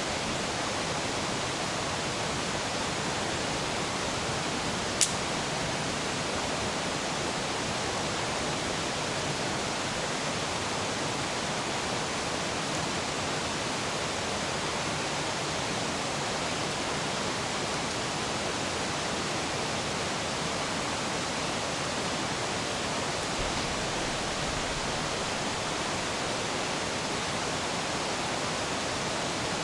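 Steady rushing of a nearby mountain river. One sharp click about five seconds in.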